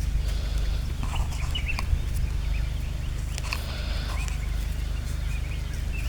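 Birds calling in short scattered chirps over a steady low rumble, with a few brief rustling clicks.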